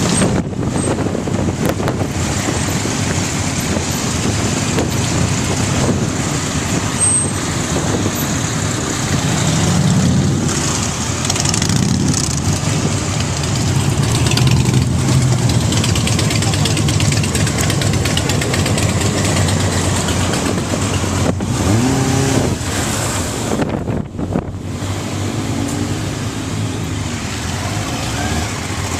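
Several motorcycle engines running steadily as a group rides along, with one engine note rising in pitch about 22 seconds in.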